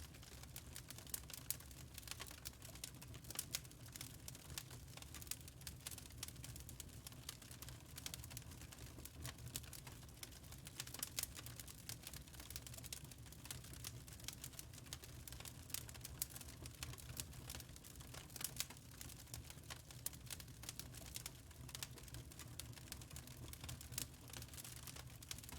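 Wood fire crackling in a fireplace: irregular, sharp little snaps over a low steady rumble.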